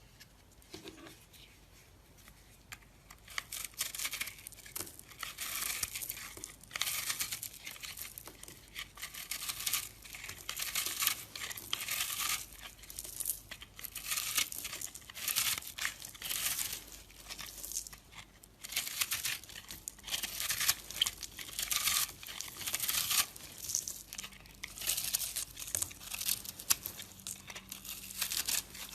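A knife carving a bar of soap: repeated short scraping, shaving strokes, one or two a second, starting a few seconds in.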